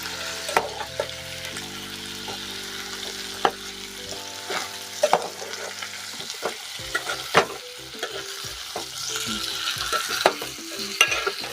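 Food sizzling as it fries in hot oil in a pan while it is stirred, with a spatula clicking against the pan now and then.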